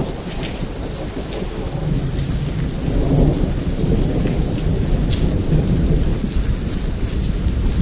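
Heavy rain falling steadily with scattered sharp drip taps, under a long low thunder rumble that swells about two seconds in and eases near the end.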